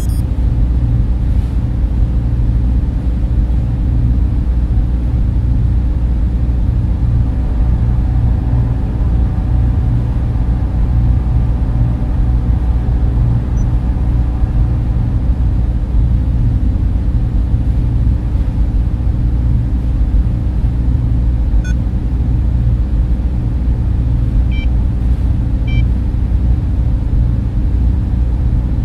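Steady, loud low hum and rush of a data center's server fans and cooling, with a few faint steady tones above it. A few tiny, faint blips come in the last third.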